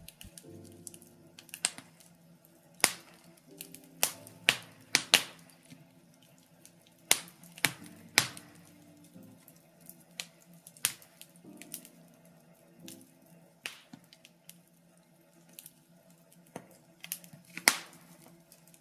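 Birch logs burning in a fireplace, crackling with irregular sharp pops and snaps, a dozen or so loud ones among many smaller ticks; one of the loudest comes near the end.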